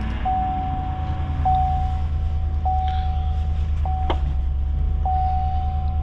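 2021 GMC Sierra 2500HD's 6.6-litre gasoline V8 idling steadily just after a cold start at about minus 12. A cab warning chime tone repeats over it, each note lasting about a second with small clicks between.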